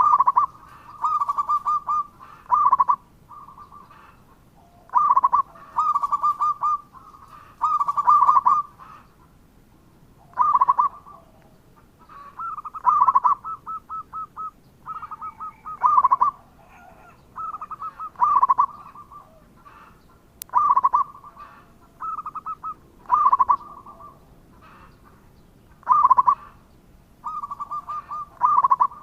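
Zebra dove (perkutut) cooing: repeated phrases of rapid, rolling coos, one every two or three seconds.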